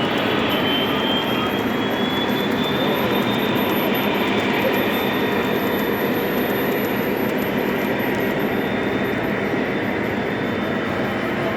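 Model train running on a layout: a steady rumble of wheels on the track, with a thin motor whine that rises in pitch over the first few seconds.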